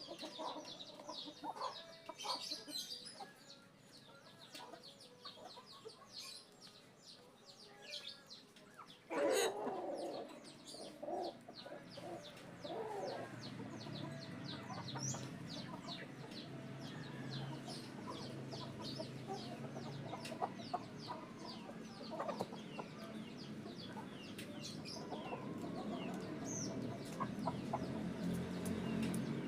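Chickens clucking in the background, with one louder call about nine seconds in.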